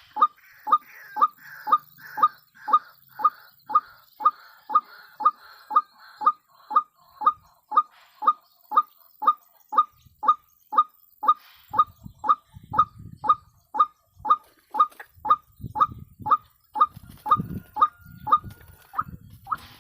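White-breasted waterhen's "kwak" call: one short, harsh note repeated at an even pace a little over twice a second.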